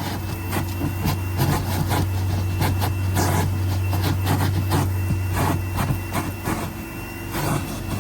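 A powered cleaning tool's electric motor running steadily with a low hum and a thin high whine, under irregular rubbing and scrubbing strokes against the car's interior.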